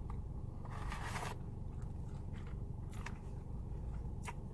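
Eating sounds close to the microphone: a crunchy bite about a second in, then a few short clicks of chewing, over a steady low hum.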